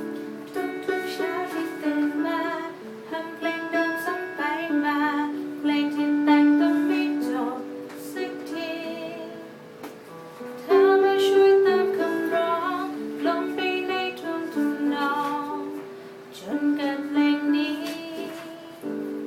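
A voice singing a song to plucked string-instrument accompaniment.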